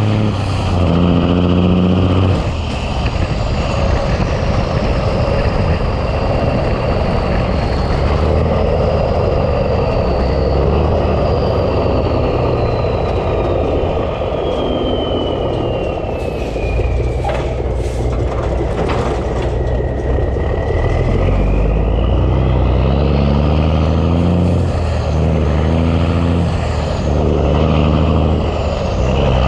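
Big Cam Cummins inline-six diesel in a 1986 Ford LT9000 tractor working under load, its pitch climbing and stepping back through gear changes at the start and again near the end. A high whistle slowly falls through the middle and then rises again, and there are two short hisses past the middle.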